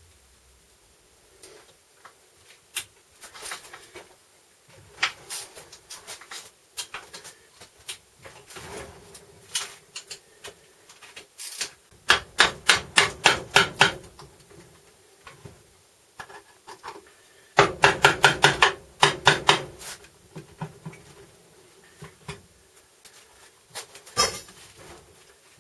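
Hand tools working on a VW Touareg transfer case being taken apart: scattered sharp knocks and clicks, with two runs of quick, evenly spaced strokes, about six a second, near the middle and again a few seconds later.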